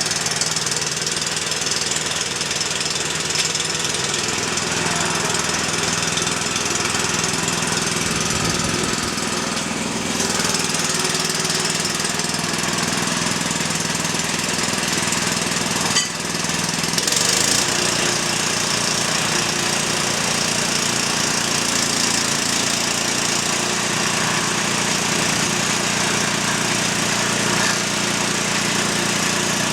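Single-cylinder diesel engine of a walk-behind tractor running steadily. There is a sharp knock about sixteen seconds in, and right after it the engine note shifts.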